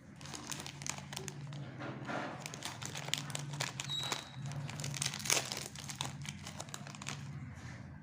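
Candy and chocolate wrappers being crinkled and torn open by hand, in a quick irregular run of crackles, over a low steady hum.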